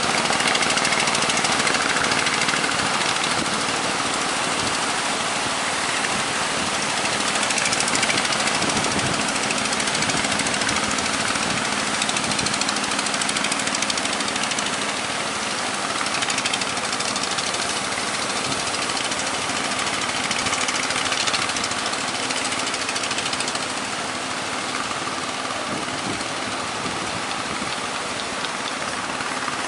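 A boat's engine running steadily under a dense hiss of wind and sea.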